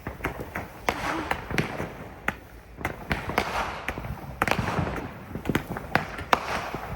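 Fireworks and firecrackers going off, with many sharp pops and bangs at irregular intervals and a crackling between them. A few of the bangs are hard enough to pass for gunshots.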